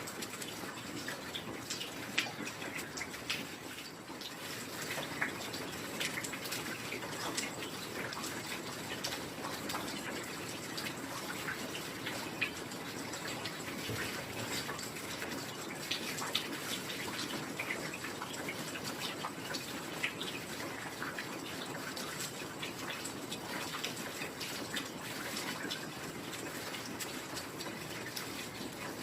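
Steady heavy rain, a dense even hiss with many scattered close drops and drips ticking through it.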